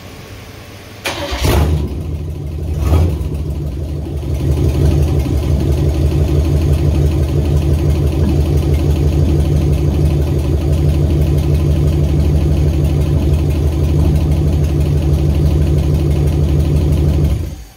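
Holden 253 V8 in an HQ GTS Monaro, revived after 20 years in storage, is started on a hotwired coil. It catches about a second in and surges briefly, then idles steadily and smoothly. It cuts out suddenly near the end when it is switched off.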